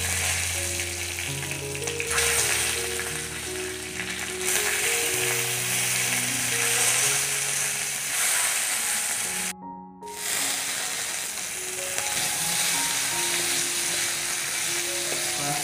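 Longhorn beetle larvae sizzling steadily as they fry in a hot wok, stirred with a spatula near the end, over soft background music. The sizzle cuts out for a moment about ten seconds in.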